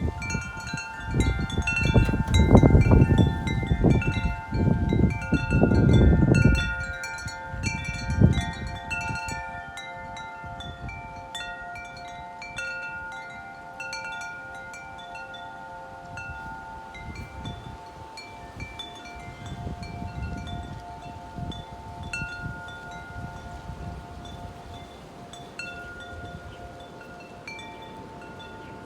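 Wind chimes ringing busily in strong gusty wind, with frequent strikes over several long ringing tones. Heavy wind buffets the microphone for the first several seconds, then eases to weaker gusts.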